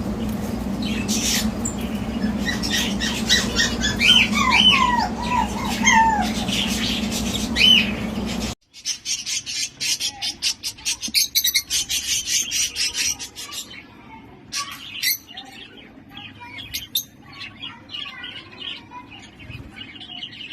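Lovebirds chirping and squawking, with short calls that bend up and down in pitch over a steady low hum. About eight seconds in the sound cuts abruptly to a fast, dense chatter of chirps that thins to scattered calls near the end.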